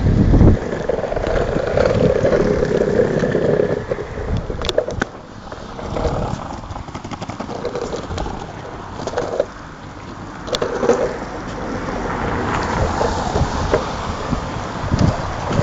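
Longboard wheels rolling on wet pavement, with wind buffeting the microphone in uneven low rumbles and a few sharp clicks.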